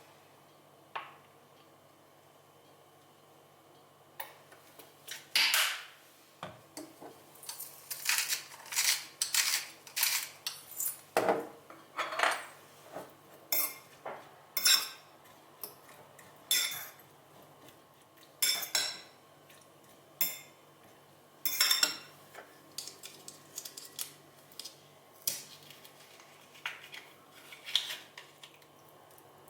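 Cutlery and dishes clinking and knocking against each other in an irregular run of sharp clinks, sparse at first, busiest through the middle, then thinning out again near the end.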